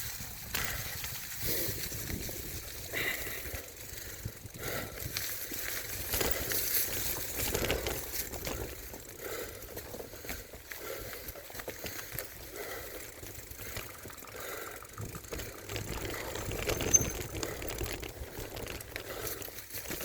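Mountain bike riding along a dirt trail: tyres rolling over dirt and gravel, with the bike rattling over bumps. One sharp knock comes about seventeen seconds in.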